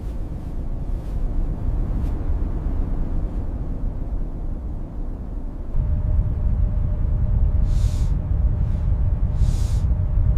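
Blizzard wind blowing steadily with a low rumble, growing louder about six seconds in, with two brief hissing gusts near the end.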